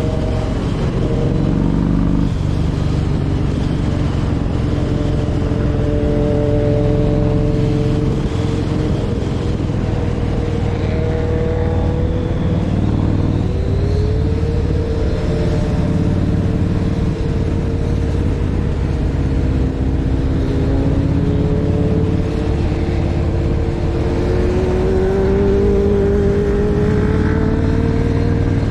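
Motorcycle engines running at road speed over a steady low rumble, their pitch drifting up and down; an engine note rises about halfway through and again near the end as a bike accelerates.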